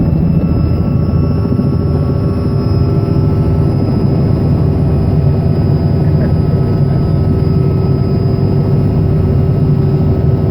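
Robinson R66 helicopter running steadily: its Rolls-Royce RR300 turboshaft engine and rotor make a dense low rumble with several steady whining tones over it.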